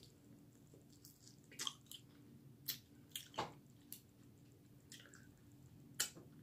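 Faint chewing of a chicken wing flat: short wet mouth clicks and smacks about once a second.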